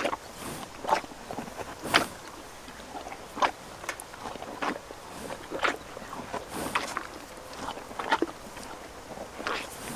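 Horse sounds: a steady series of short knocks or crunches, roughly one a second.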